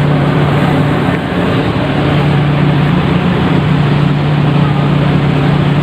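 A ship's engine droning steadily, a constant low hum over a steady rushing noise.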